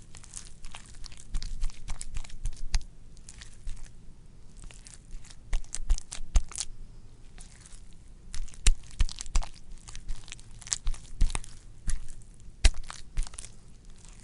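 Something wet and squishy being squelched: a run of irregular sharp clicks and crackles that come in clusters, with short quieter gaps between them.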